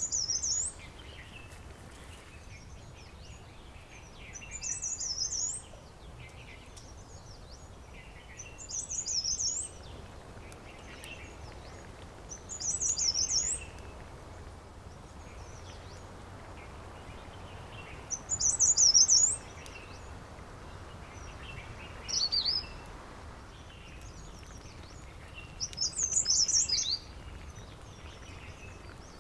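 A songbird repeating the same short, high-pitched song phrase about every four seconds, seven times, over a faint steady background hiss.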